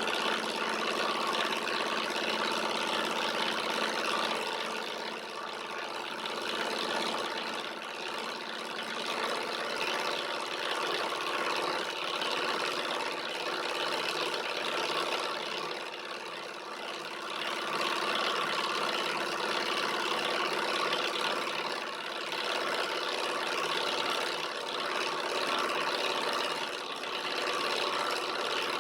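Small alpha-type Stirling engine running steadily while driving a small generator, a continuous mechanical whir that swells and dips slightly in level.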